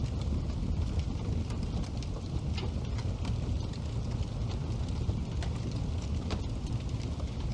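Wood fire burning in a fireplace: a steady low rumble of flames with sharp crackles and pops scattered irregularly throughout.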